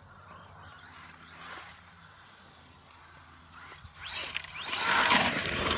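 Arma Mojave EXB RC truck driving: its electric motor and drivetrain whine and its tyres churn over dirt. The sound is faint at first, then louder with a rising whine about four seconds in as the truck speeds up.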